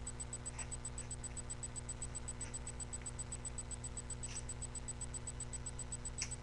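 Pieces of clear tape being pulled off and pressed onto folded paper: four faint, short scratchy sounds spread through, over a steady low electrical hum with a fine even ticking.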